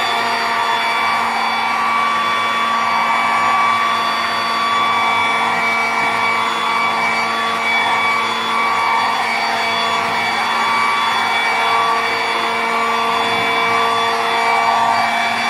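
Electric leaf blower running steadily at full power, a loud even rush of air with a whine of several steady tones, blowing ash out of a fireplace.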